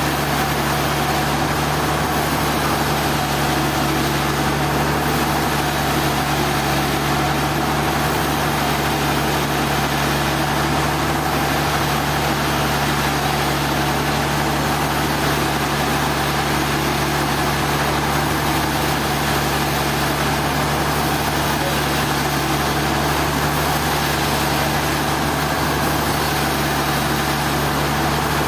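An engine running steadily at a constant speed: an unchanging low hum with a noisy mechanical wash over it.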